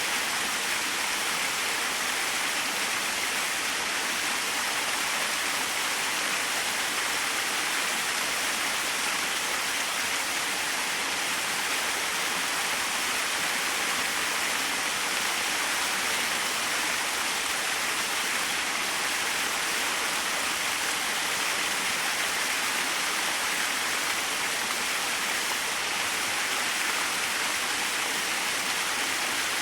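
Small waterfall splashing steadily, an even rushing of falling water without pauses or distinct events.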